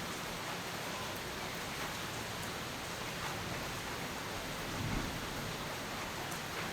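Steady, dense rainfall hissing evenly, with a short low thump about five seconds in.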